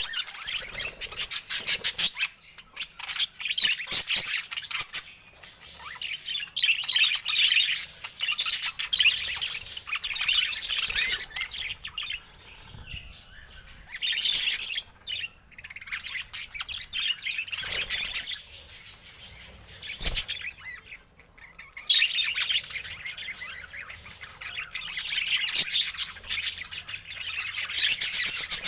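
Budgerigars chirping and warbling in fast, chattering phrases a few seconds long, with short quieter gaps between them.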